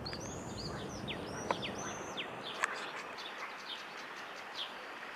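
Songbirds singing: a string of short, high whistled notes, some arching and some dropping sharply, over a steady outdoor hiss.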